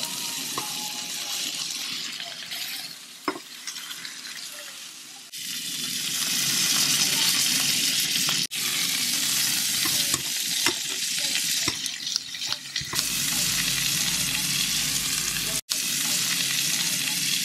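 Beef steak frying with garlic in a pan, a steady sizzle, with asparagus spears frying alongside it later on. The sizzle breaks off and resumes a few times and is louder from about five seconds in.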